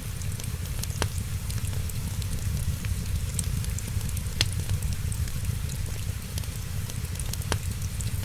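Wood fire crackling over a steady low rumble: many small ticks, with three sharper pops about a second in, near the middle and near the end.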